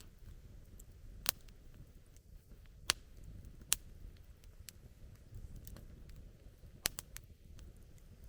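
Wood campfire crackling: irregular sharp pops and snaps over a low steady rumble, with three pops in quick succession near the end.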